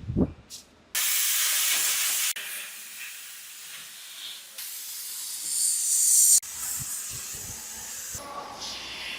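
Hissing spray in four bursts of about two seconds each, cut off sharply between them; the third is the loudest.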